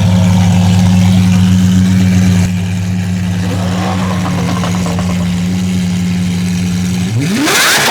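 Car engine running with a steady low drone, then revved near the end, its pitch rising sharply into a loud rush.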